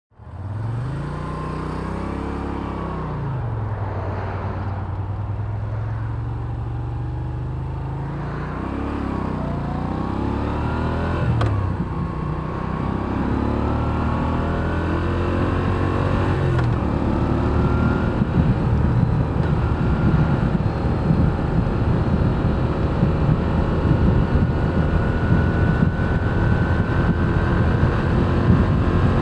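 Stock 2023 Moto Guzzi V7 Special's air-cooled 853 cc transverse V-twin idling with a couple of throttle blips, then pulling away and accelerating up through the gears to steady riding.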